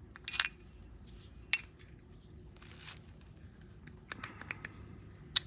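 Small metal clicks and clinks as a golf cart engine's piston, piston pin and connecting rod are handled and fitted together, with a quick cluster of clicks near the end and a brief scrape or rustle in the middle.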